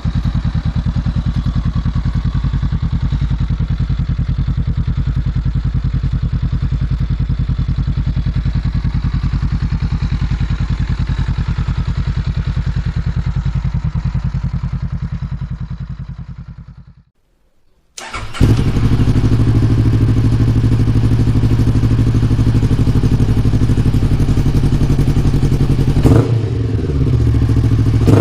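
Royal Enfield Hunter 350's single-cylinder engine idling through an aftermarket exhaust, a steady even thumping. It fades away a little past halfway, and after a second of near silence a louder, deeper idle cuts in abruptly, with a brief change in its note near the end.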